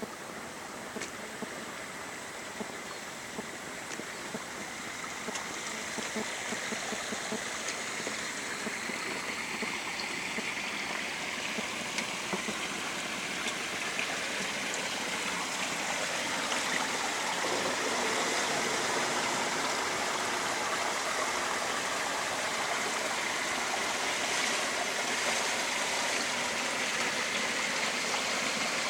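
Spring water running in a brook, a steady rushing sound that grows gradually louder as it gets nearer.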